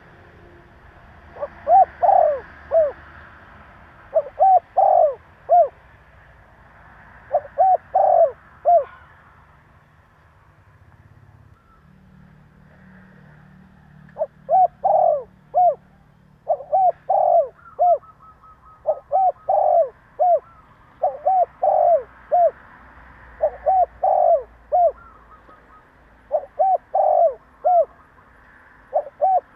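Spotted dove cooing, its usual call of a few quick notes repeated phrase after phrase. After the first three phrases there is a pause of about five seconds, then the phrases come about every two and a half seconds.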